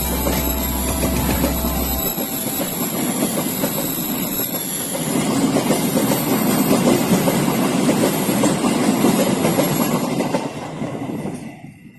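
Train passing close by, its wheels clattering over the rail joints, then fading away quickly near the end.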